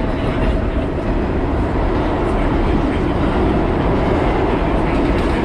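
Vintage New York City subway train running at speed, heard from inside the car: a steady, loud rumble of wheels on the rails.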